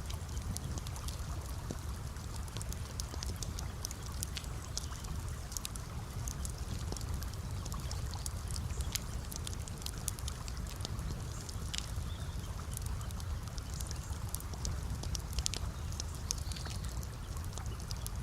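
Campfire crackling, with frequent sharp pops and snaps scattered over a steady low rumble.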